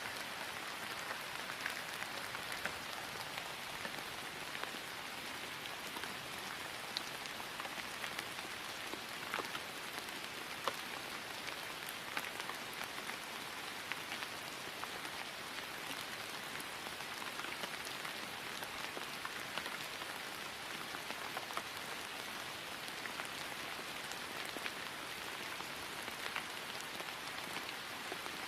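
Steady rain falling on grass: an even hiss with many small scattered drop ticks.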